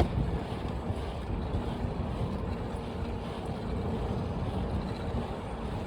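Steady rushing noise while riding a bicycle along a road: wind on the handlebar-mounted phone's microphone and rolling tyre noise, even throughout with no distinct events.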